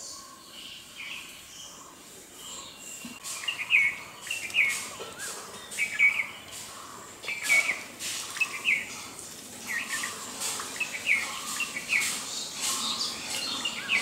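Bird chirping: short, sharp notes that begin about three seconds in and recur irregularly, one or two a second.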